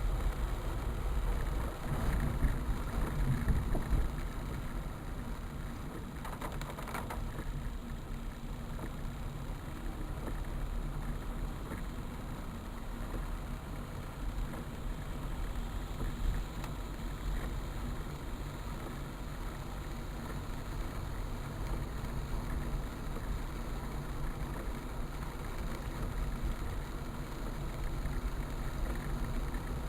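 Steady low rumble with a wash of noise, as of a vehicle moving through water; a little louder in the first four seconds.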